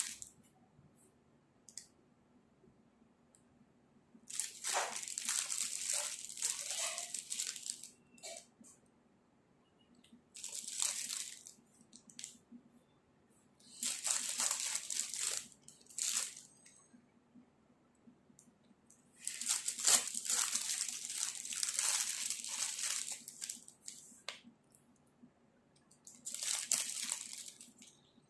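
Plastic crinkling and rustling in about six separate bursts of one to five seconds each, with quiet pauses between them.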